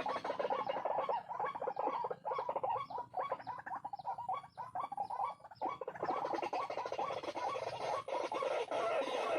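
White-breasted waterhen (ruak-ruak) calling: a rapid run of short, repeated croaking notes that breaks off briefly a little past halfway, then resumes fuller.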